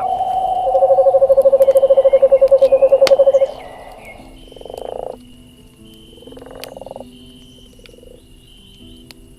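Frogs calling: a higher trill fades about a second in under a louder, lower, rapidly pulsed trill that stops about three and a half seconds in, followed by two short croaks.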